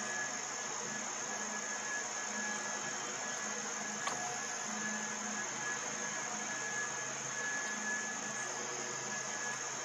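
Steady chorus of insects, a continuous high-pitched drone, over a faint low hum, with one soft tick about four seconds in.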